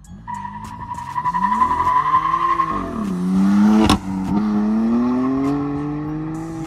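BMW M4's 3.0-litre twin-turbo inline-six accelerating hard, its pitch climbing, dropping at upshifts about three and four seconds in, then climbing again. Tyres squeal steadily over the first few seconds of the launch, and there is a sharp crack just before the second shift.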